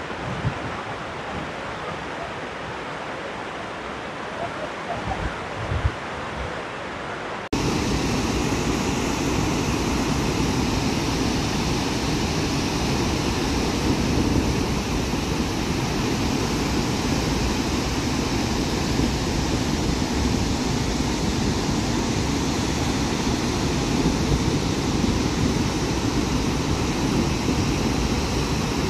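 Steady roar of the Gaganachukki waterfall, with wind gusting on the microphone. About seven seconds in it cuts abruptly to a louder, fuller roar that holds steady.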